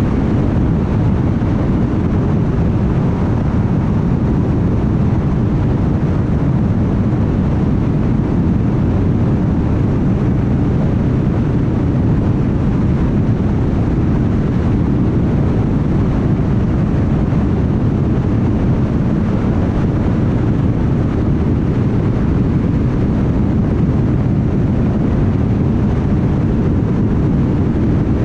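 Car driving steadily at highway speed: a constant low rumble of tyre, road and engine noise with no changes.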